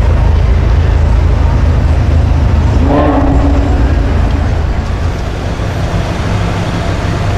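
Motor vehicle engine running close by with a steady low rumble in street traffic, easing slightly after the midpoint. A brief pitched sound lasting about a second comes about three seconds in.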